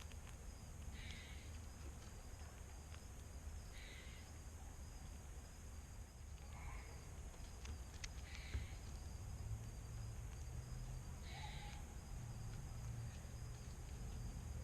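Outdoor ambience with a short, harsh animal call repeated five times, every two to three seconds, over a faint steady low hum.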